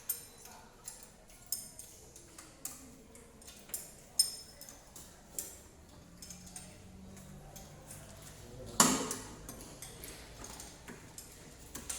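Hand tools and metal engine parts clicking and clinking irregularly during work on a cylinder head, with one louder metallic clank about nine seconds in.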